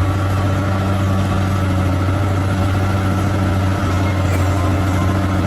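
Large bulldozer's diesel engine running at a steady speed, an even low drone with no change in pitch.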